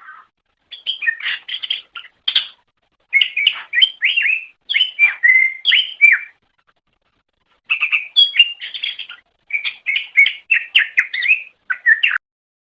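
Greater green leafbird (cucak ijo) singing: fast runs of chirps and whistled, gliding notes in four bursts of a few seconds each, with short pauses between them.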